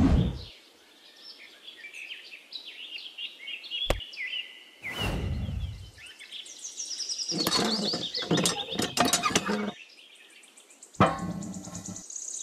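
Small birds chirping and twittering in quick high trills, with a single click about four seconds in and a brief sweep falling in pitch about a second later.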